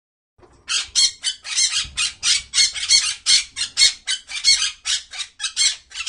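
A bird squawking harshly over and over, in quick short calls of about three or four a second.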